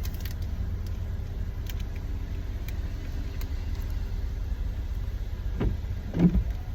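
Car engine idling, a steady low rumble heard from inside the cabin, with a couple of short thumps near the end.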